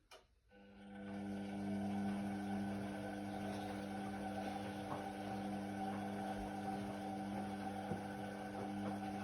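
Indesit WIDL 106 washer-dryer: a click, then a motor in the machine starts and runs with a steady, even hum that does not change in pitch.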